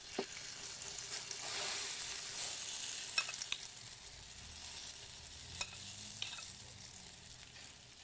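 Eggplant omelette sizzling steadily in hot oil in a frying pan, with a few light clicks of a metal spoon against the pan and bowl as more egg mixture is spooned on.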